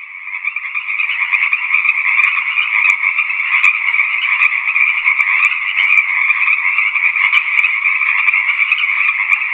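A chorus of frogs croaking, a dense, continuous calling with no break.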